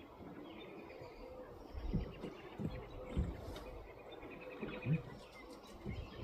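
A bird giving two faint runs of rapid chattering notes, about a second in and again near the end, with several low thumps in between.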